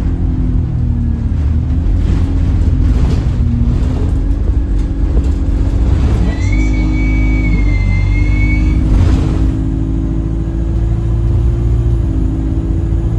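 Alexander Dennis Enviro200 bus running under way, its engine rumble overlaid by a strange horn-like droning tone that steps up and down in pitch; the uploader suspects the gearbox. A thin high whistle-like tone sounds briefly in the middle.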